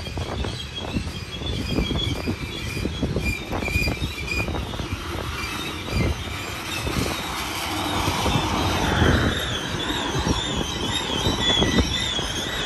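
Black tank cars of a freight train rolling past, their steel wheels clacking and knocking over the rails, with a high, wavering wheel squeal that grows stronger in the second half.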